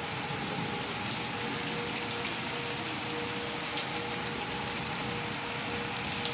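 Thunderstorm rain pouring steadily as an even, dense hiss, with a faint steady tone underneath.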